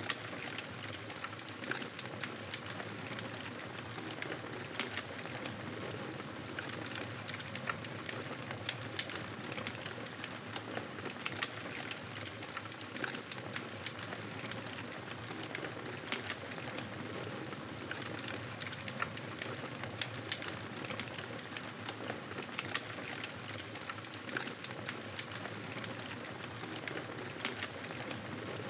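Campfire crackling steadily, with a continual hiss and frequent small sharp pops.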